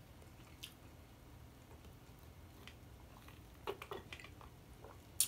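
Close-miked chewing of soft food: sparse, wet mouth clicks and squishes, with a small cluster of clicks about four seconds in and a sharper click near the end.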